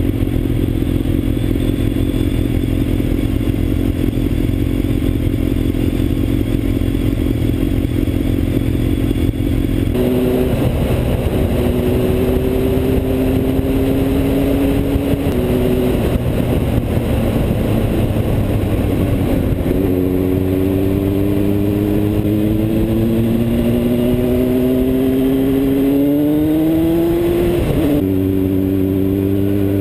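Motorcycle engine running under way. Its note holds steady, then climbs for several seconds as the bike accelerates, then drops sharply at a gear change near the end.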